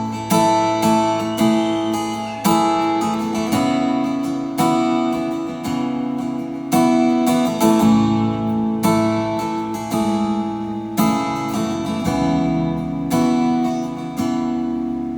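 Acoustic guitar playing a slow instrumental song intro, chords struck at an unhurried, even pace and left to ring.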